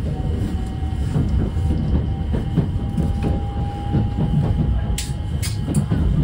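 Local train running: a steady low rumble of wheels on rail with a thin steady whine that ends about five seconds in, and a few sharp clicks near the end.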